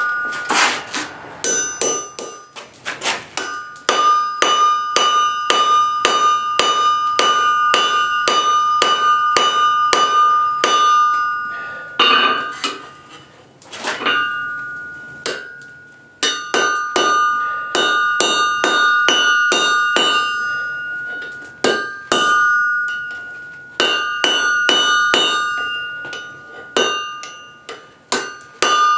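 Forging hammer striking steel on an anvil, about two to three blows a second in runs broken by short pauses, each blow leaving the anvil ringing.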